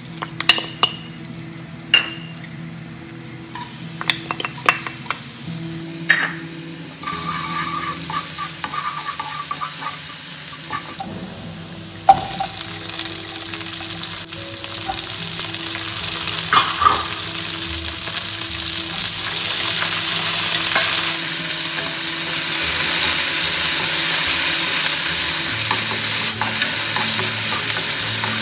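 Grated ginger, then onion, red bell pepper and pineapple chunks sizzling in hot oil in a nonstick wok, the sizzle growing louder as more goes in. A wooden spatula stirs, with sharp clicks and taps in the first few seconds and a few more later.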